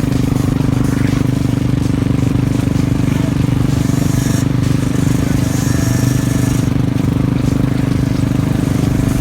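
An engine running at a steady idle, with an even, unchanging note.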